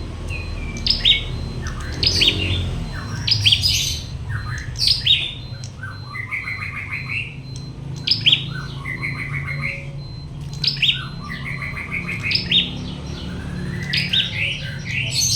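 Prinia (prenjak) singing: roughly every two seconds a phrase of sharp, high chirps, followed by a fast, lower rattling trill, repeated about eight times over a steady low hum.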